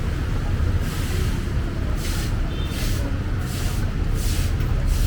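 Splashing steps wading through ankle-to-shin-deep floodwater, a short splash roughly every half to one second, over a steady low rumble of street traffic.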